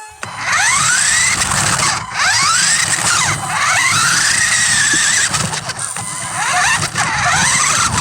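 RC car's electric motor whining loudly, its pitch swooping up and down again and again as it is revved and eased off.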